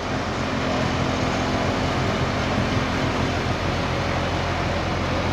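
A push boat's 300 hp John Deere diesel engine running steadily at a constant speed, a low, even drone.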